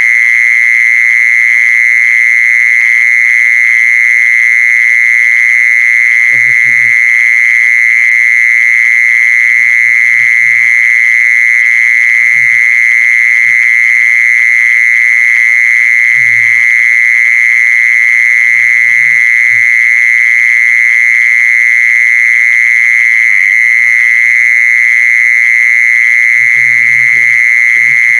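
Call of the insect known in Thai as jee-son (แมลงจีซอน): a loud, unbroken, high-pitched buzz that holds one pitch without change.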